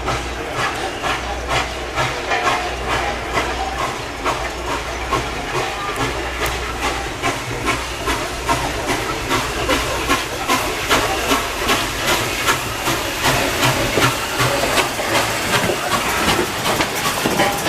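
Norfolk & Western J-class 4-8-4 steam locomotive No. 611 working: steam hissing and exhaust chuffs that settle into an even, rapid beat.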